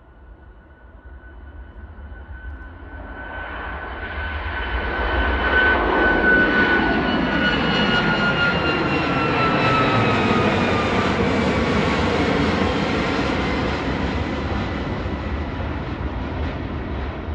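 Jet airliner's engines growing steadily louder over about six seconds, then staying loud and easing slightly. A high whine runs through the engine noise and slides a little down in pitch as the aircraft goes past.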